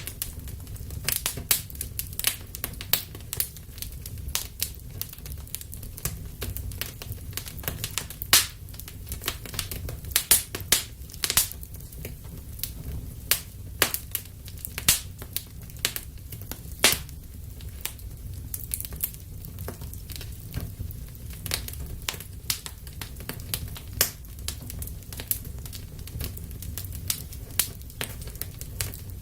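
Wood fire burning in a fireplace, crackling and popping: irregular sharp snaps, some loud, over a low steady rumble of the flames.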